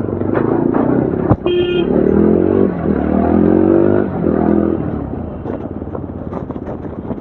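Yezdi Adventure motorcycle's single-cylinder engine and exhaust under way, the revs climbing in a pull from about two to four seconds in, then easing and rising briefly again. A short vehicle horn toot sounds about a second and a half in.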